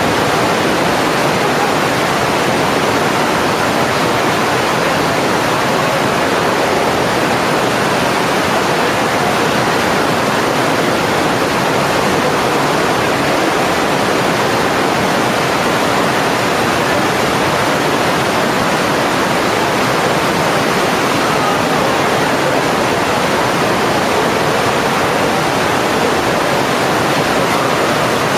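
Steady, loud rush of water falling from the Karasu waterfall.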